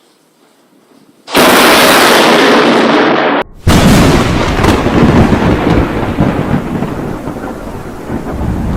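Close lightning strike: quiet, then a sudden, very loud thunderclap about a second in, and after a brief break a second loud crack that runs on as rumbling thunder, slowly easing.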